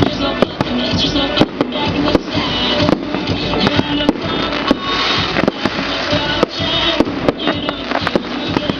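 Fireworks going off, many sharp cracks and bangs in quick, irregular succession, over music playing.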